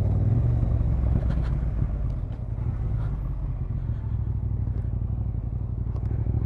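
Motorcycle engine running with a steady low hum, easing off slightly in the middle.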